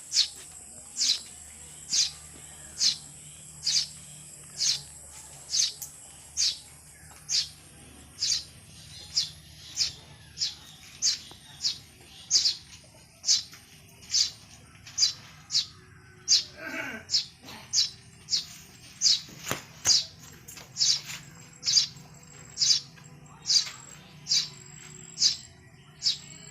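Bird chirping: a short, sharp, high chirp repeated evenly, a little more than once a second, with a different, lower gliding call breaking in about two-thirds of the way through.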